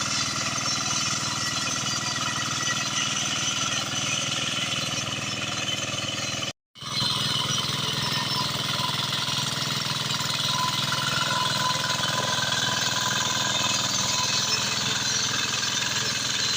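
Walk-behind hand tractor's engine running steadily under load with a fast, even chugging, as it harrows a flooded rice paddy. The sound cuts out completely for a split second about a third of the way through, then resumes the same.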